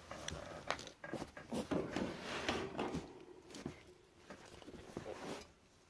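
Scattered light clicks and rustling as a water dish is handled and set into a wire budgie cage.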